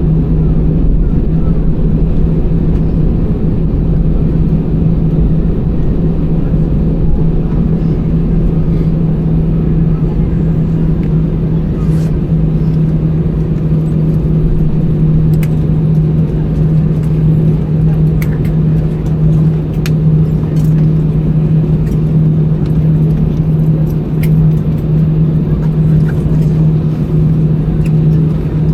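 Airbus A320-200 cabin noise on the ground after landing: a steady low rumble with a constant hum from the engines and aircraft systems, with a few faint clicks.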